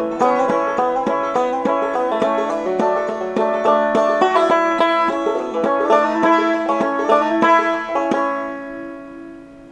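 Clawhammer banjo playing the closing instrumental of a slow old-time song: quick plucked notes, then a last chord about eight seconds in that rings and fades away.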